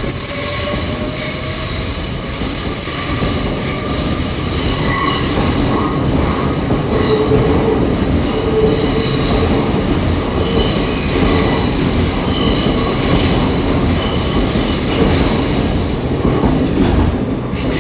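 Departing Class 802 IET bi-mode train, two units coupled, its wheels giving a steady high-pitched squeal of several tones over a rumble as it moves out over the station pointwork.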